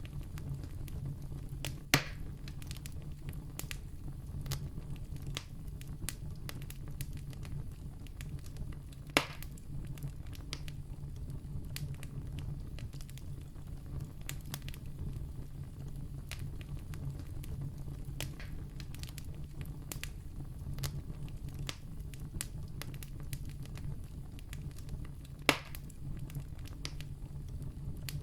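Wood campfire crackling, with many small snaps over a low steady rumble. Three sharp, louder pops come about 2, 9 and 25 seconds in.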